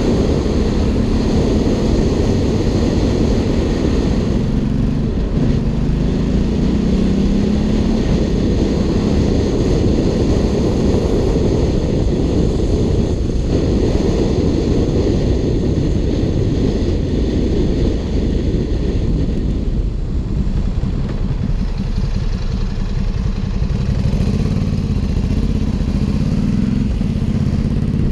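Ducati Hypermotard 796's air-cooled L-twin running through an Arrow aftermarket exhaust, its pitch climbing and falling with the throttle over a constant low rumble.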